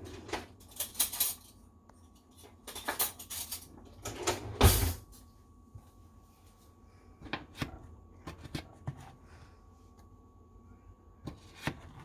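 A spoon and other utensils clinking and scraping against a pie dish and plates in short bursts of clatter, as a piece of pie is dug out and served. The loudest is a heavier knock a little before halfway.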